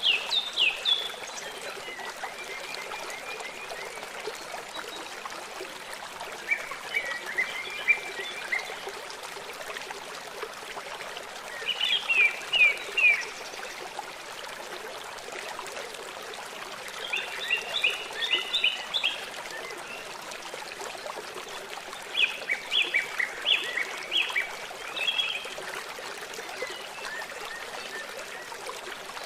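Steady running water, with a songbird singing short phrases of rapid high notes every few seconds.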